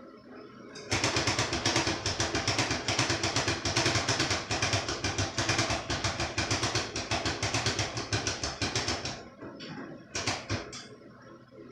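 Heavy power drill, the 'wrist breaker', drilling a mounting hole, running hard for about eight seconds with a fast pulsing rattle, then a short second burst near the end.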